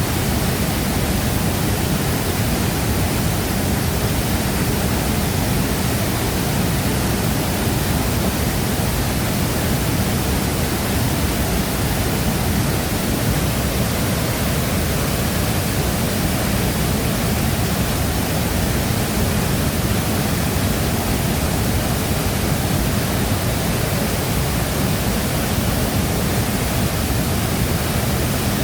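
Shifen Waterfall's falling water: a steady, dense rush of noise, heaviest in the low end, with no change in level.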